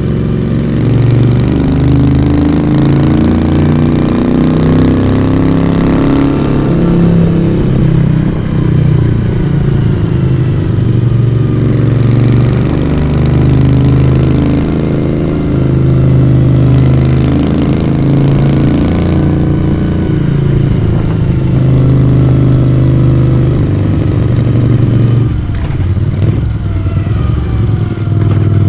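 1982 Moto Guzzi V35's air-cooled V-twin engine and exhaust running under way. The note rises steadily over the first six seconds, drops, then holds with smaller rises and falls.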